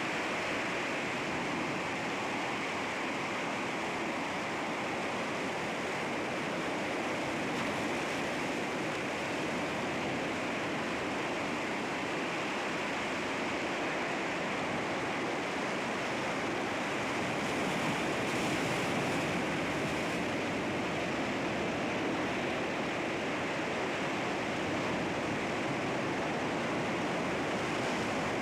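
Sea waves washing against rocks: a steady rush of surf, swelling slightly about two-thirds of the way through.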